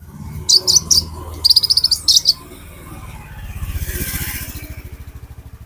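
A sunbird, the konin or kolibri ninja, giving sharp, high chirps in quick runs during the first half. A low pulsing rumble then swells and fades through the second half.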